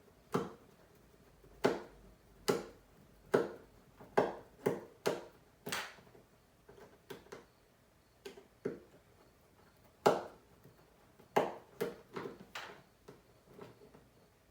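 Sharp little clicks and taps, about fifteen at irregular spacing with a pause in the middle, from a precision screwdriver, tiny screws and the phone's hard parts being handled on a work mat.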